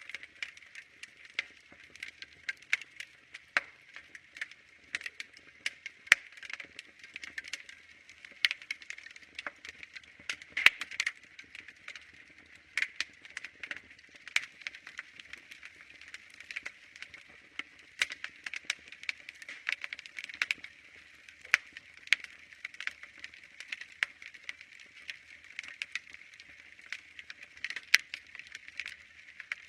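Wood fire crackling: many irregular sharp snaps and pops, a few louder ones, over a steady soft hiss.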